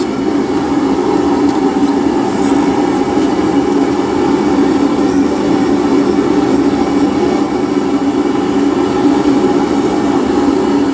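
Steady, even rushing noise from a running forge, with no breaks or hammer blows.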